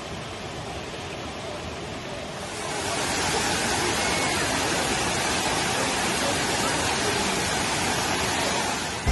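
Waterfall rushing: a steady roar of falling water that steps up louder and brighter about two and a half seconds in.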